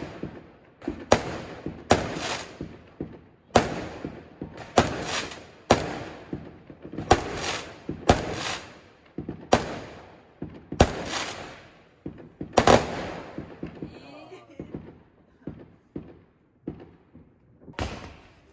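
New Year's fireworks going off in a steady barrage of sharp bangs, about one a second, each trailing off in a rolling echo. A lighter stretch of smaller pops comes a little after halfway, before the big bangs resume near the end.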